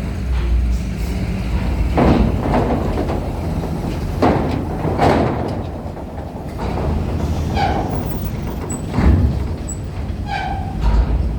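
Heavy vehicles' engines rumbling steadily as they drive onto or off a RORO ferry, with several loud clanks and knocks from the ramp. Two short pitched calls come in the second half.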